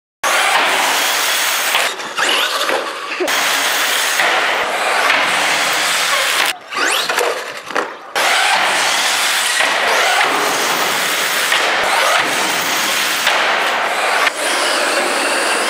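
Radio-controlled trucks driving hard: a motor whining and rising in pitch over loud tyre and ground noise, broken by abrupt cuts between shots.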